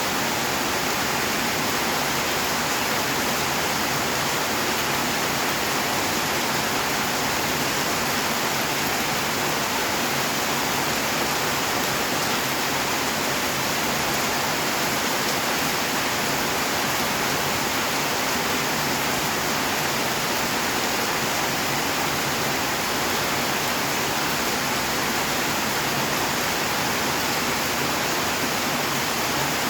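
Rain falling steadily: an even, unbroken hiss with no single drops or other sounds standing out.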